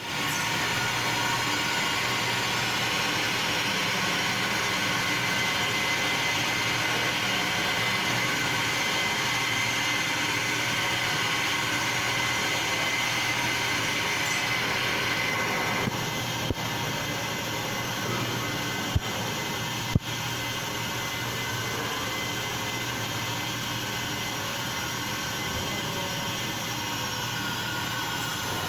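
Machine tool running while machining a metal heat exchanger cover: a steady mechanical noise with a high whine that drops away about halfway through, the whole sound getting slightly quieter, followed by a few sharp clicks.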